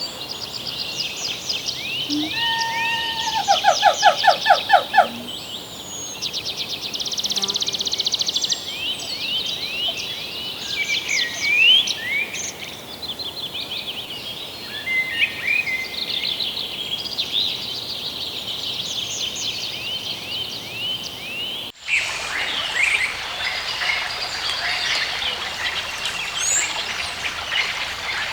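A chorus of wild birds calling and singing: many overlapping chirps, rising whistles and trills, including a fast buzzy trill. About 22 seconds in the sound cuts abruptly, and birdsong continues over a steady rushing of running water.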